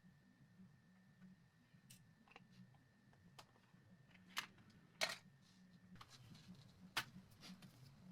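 Quiet room tone with a faint steady hum, broken by a few scattered sharp clicks and taps, the loudest three near the middle and about seven seconds in.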